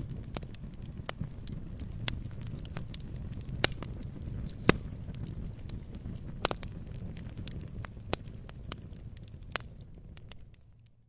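Wood campfire burning: a low steady rumble of flames with irregular sharp snaps and pops from the burning wood, a few louder than the rest. The sound fades out at the end.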